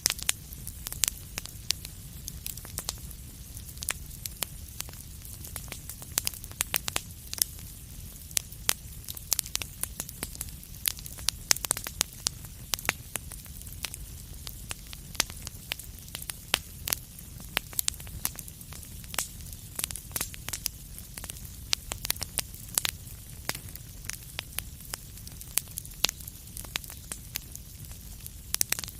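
Wood fire burning in a fireplace, crackling and popping with many sharp, irregular snaps over a low, steady rumble of the flames.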